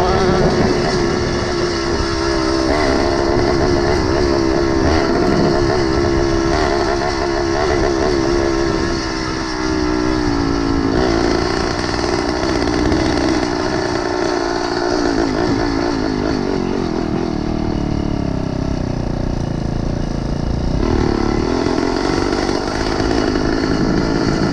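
A motorized bicycle's small engine running while riding, its pitch wavering with the throttle. It eases off about eighteen seconds in and picks up again about three seconds later.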